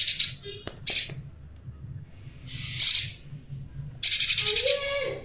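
Spiderhunter giving loud, harsh, rapidly stuttering calls in bursts: short ones about a second in and three seconds in, and a longer chattering run of about a second near the end.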